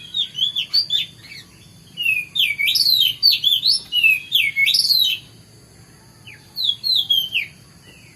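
Oriental magpie-robin (kacer) singing: quick phrases of sweeping, dropping whistles in three bursts with short pauses between.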